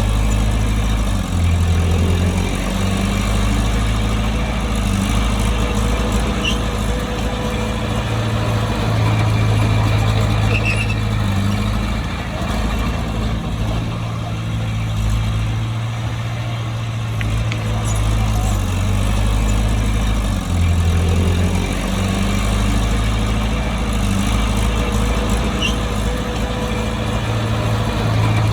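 Bulldozer's diesel engine running steadily while working, a loud, constant low drone. The engine note shifts briefly about 2 seconds in and again about 21 seconds in.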